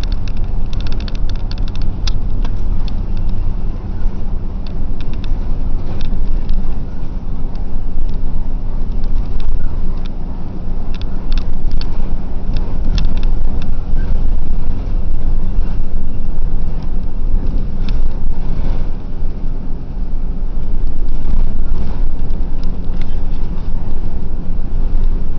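Bus running on the road: a steady low engine and road rumble with scattered light clicks and rattles.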